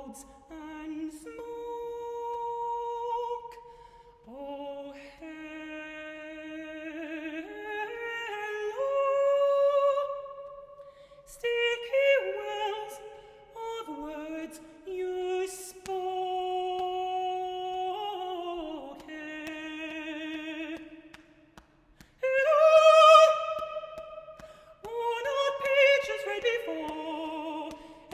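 Solo unaccompanied voice singing long held notes with vibrato, moving in steps between pitches, with a few short clicks in between.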